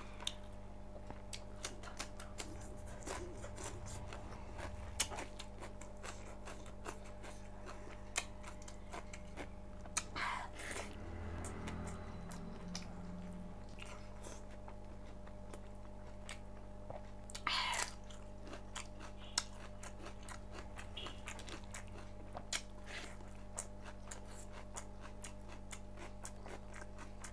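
A person chewing and biting food close to the microphone, with many small wet clicks and crunches. Two brief louder sounds come about ten and seventeen seconds in, over a steady low hum.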